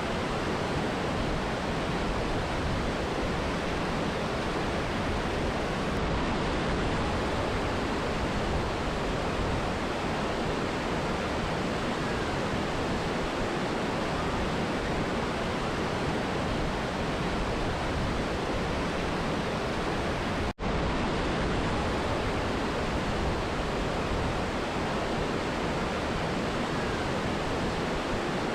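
Steady rushing of a mountain river and waterfall. There is a momentary dropout about two-thirds of the way through.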